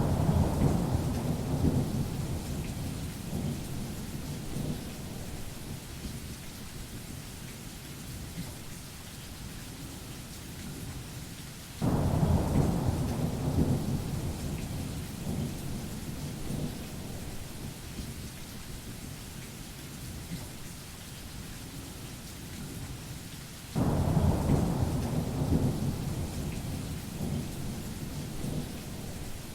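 Steady rain hiss with three rolls of thunder about 12 seconds apart, each starting suddenly as a deep rumble and fading away over several seconds.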